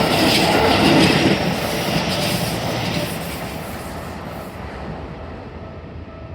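Keisei 3100 series electric train passing over a level crossing, its wheels clattering over the rail joints, the noise fading away after about three seconds.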